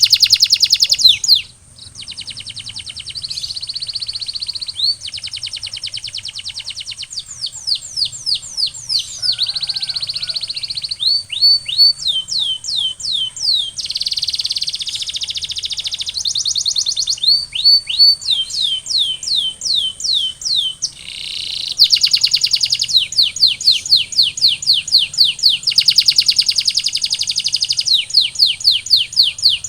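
Domestic canary singing a continuous song of rapidly repeated notes, switching every second or two between runs of quick rising sweeps and denser, buzzier rolls. A faint steady high tone runs underneath.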